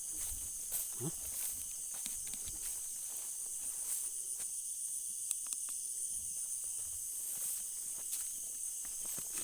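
Night insect chorus of crickets: a steady high-pitched trilling, with scattered faint clicks and soft thuds of movement through the vegetation.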